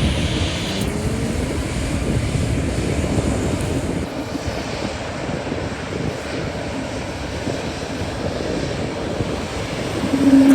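Airliner engines running with a steady low rumble. A higher hiss fades out about a second in.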